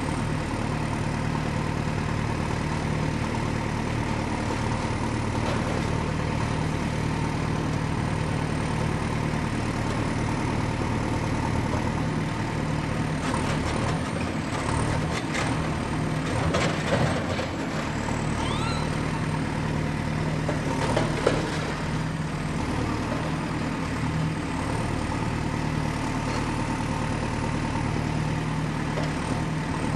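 Excavator's diesel engine running steadily under work, with a deep, even hum. Partway through comes a cluster of knocks and scrapes, and a single sharp knock follows a few seconds later.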